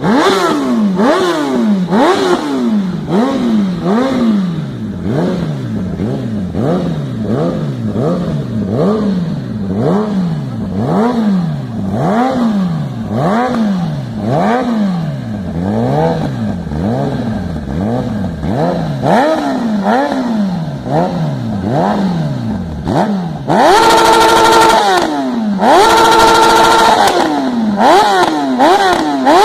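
Sport motorcycle engine revved in neutral with quick throttle blips, its pitch climbing and dropping about once a second. Near the end it is held steady at high revs twice, with a short drop between.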